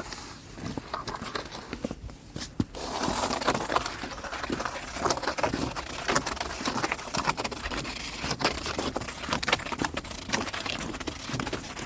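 Snow crunching and crackling underfoot: footsteps in fresh snow, a dense irregular crackle that thickens about three seconds in.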